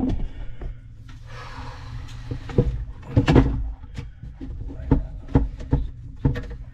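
Scattered knocks and clunks of parts and tools being handled inside a wooden sink cabinet, with a brief rustle near the start and a heavier clunk about three seconds in.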